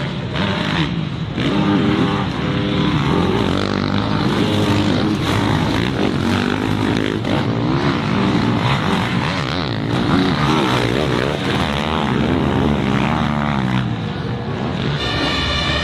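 Several dirt bike engines revving hard over one another, their pitches repeatedly rising and falling as the riders work the throttle and shift gears.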